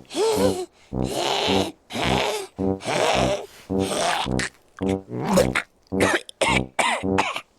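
Repeated coughing and hacking, about two bursts a second, some with a voice-like pitch that bends up and down.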